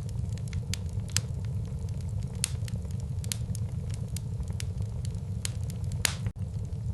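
Wood fire burning in a fireplace: a steady low rumble with sharp, irregular crackles and pops, the loudest pop about six seconds in.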